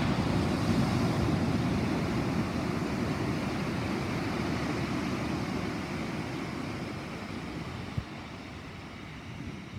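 Rolling thunder: a deep rumble that peaks in the first couple of seconds and then slowly dies away, with one short click about eight seconds in.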